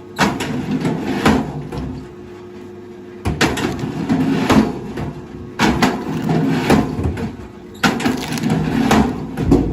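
Heavy machinery working, with clattering knocks and a running engine in bursts of a few seconds that start suddenly, broken by short quieter lulls.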